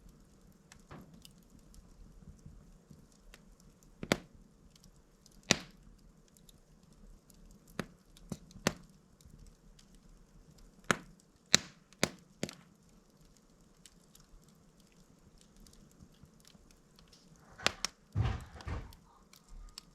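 Wood log burning in a fireplace, giving off sharp, scattered pops and cracks every second or few, with a short flurry of crackling near the end.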